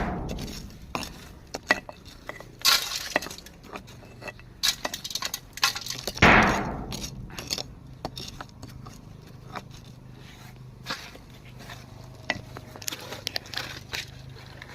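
Irregular clinking and clattering of hard objects, with three louder crashes in the first half; the loudest comes about six seconds in and rings on briefly.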